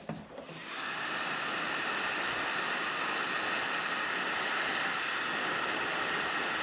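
Electric heat gun blowing steadily, shrinking heat-shrink tubing onto a wiring harness. It comes on about a second in, with a faint steady whine over the rush of air.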